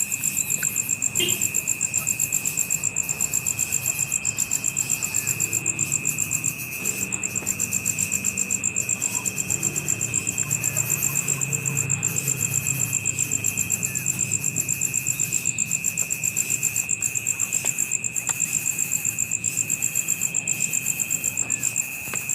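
Insects trilling steadily: a high, rapidly pulsing trill with a second, lower steady tone beneath it.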